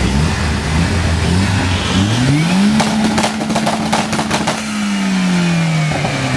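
Turbocharged Mini Cooper engine blipped several times, then revved up and held high while the exhaust fires a rapid string of bangs, before the revs fall back toward idle.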